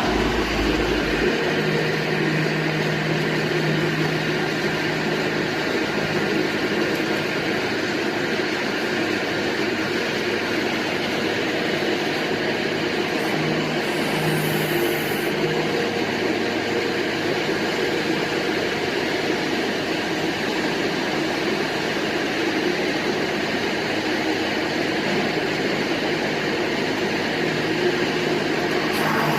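Type 700 drilling rig running steadily: the engine and hydraulic power unit give an even mechanical drone, with a low hum that fades in and out a few times.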